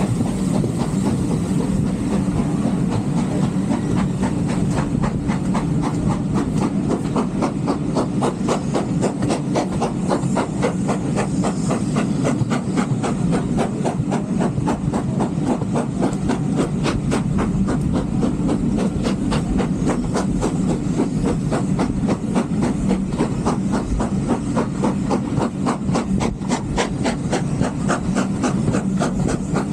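Steam train running along the line: a steady rumble and hiss with a fast, even run of beats that keeps going without a break.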